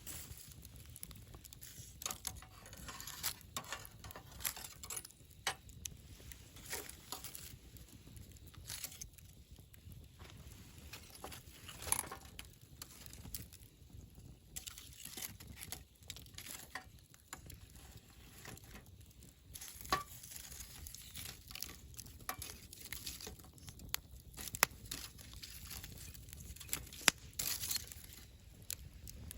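Wood campfire crackling: a continuous run of small, irregular crackles with a few sharper, louder pops scattered through.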